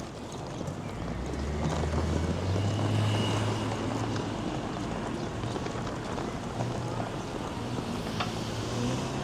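Street traffic: a motor vehicle's low engine hum swells from about a second in and is loudest around three seconds, over a steady wash of city noise.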